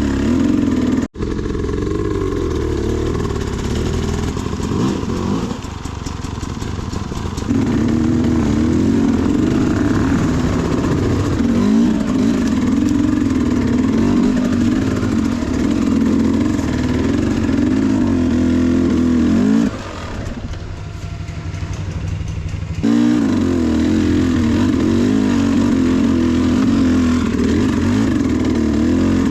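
Sherco SE300 two-stroke enduro motorcycle engine running on and off the throttle, its pitch wavering up and down. The sound cuts out for a moment about a second in, and drops away for about three seconds around twenty seconds in before coming back.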